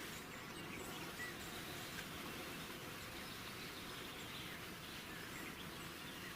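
Faint outdoor nature ambience: a steady hiss of background noise with a few scattered faint bird chirps.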